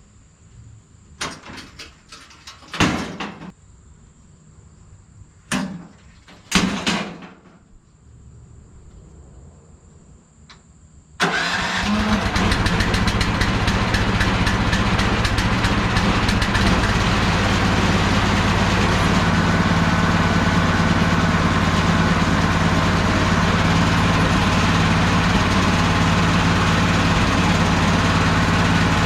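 A few short knocks and clatters, then about eleven seconds in the MechMaxx 32 band sawmill's gas engine starts abruptly and runs steadily.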